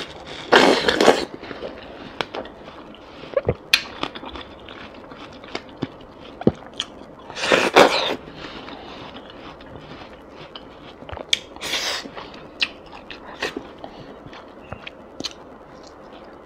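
Biting into and chewing slices of watermelon: a few loud crunching bites, one just after the start, one about eight seconds in and one about twelve seconds in, with small wet mouth clicks and smacks of chewing between them.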